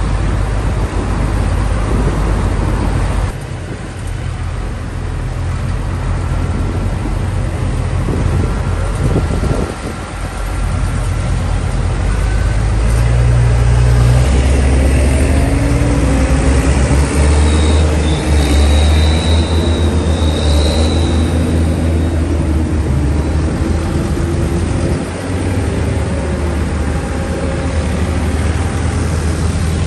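Tractor engines running on the road, one or more passing by, with a steady low engine rumble; the sound changes abruptly about three and ten seconds in, and the engine note wavers in pitch through the middle stretch.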